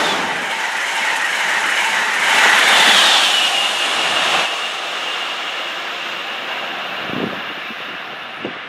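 Electric passenger train passing at speed, a loud rush of wheels on rail with some clickety-clack that slowly fades as it moves away. A high steady whine joins about three seconds in.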